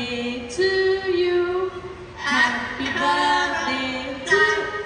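Amazon parrot singing a tune in a human-like voice: a string of held notes with short breaks between them.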